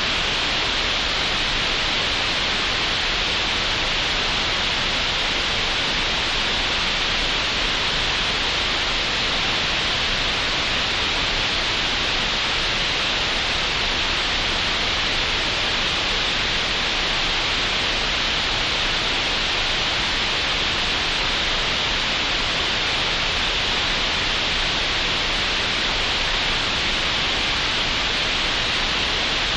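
Synthetic green noise generated in Audacity: a steady, unchanging hiss, strongest in the upper middle of the range.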